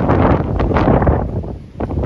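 Wind buffeting the microphone in loud, irregular gusts, with a low rumble and hiss that dips briefly near the end.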